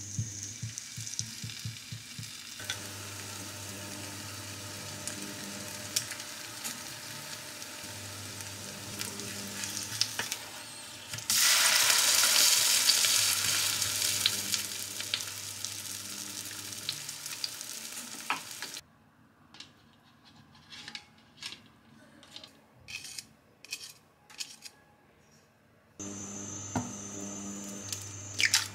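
Breaded chicken cutlet sizzling as it fries in a ceramic frying pan, with the scrape of a spatula; the sizzle turns much louder about eleven seconds in and then eases off. After that there is a quieter stretch of light separate clicks, then butter sizzling in the pan near the end.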